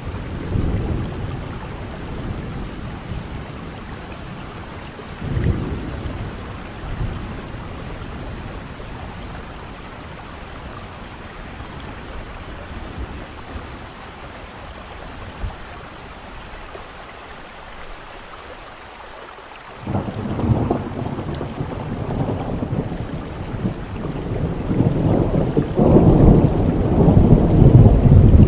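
Steady rain with rolling thunder: low rumbles about half a second and five seconds in, another starting suddenly about twenty seconds in, and a long rumble building to the loudest point near the end.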